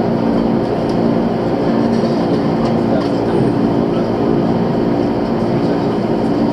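Interior sound of a JR 185 series electric train running on the line: a steady hum with the rumble of the wheels on the rails.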